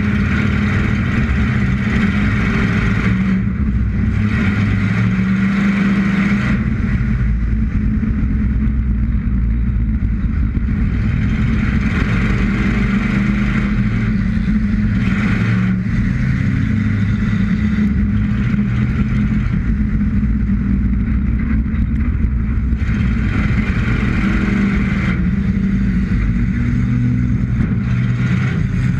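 Roller-derby race car's engine heard close up from its hood, running hard around the oval and rising and falling in pitch as the driver accelerates and lifts. A rushing noise comes and goes over it every few seconds.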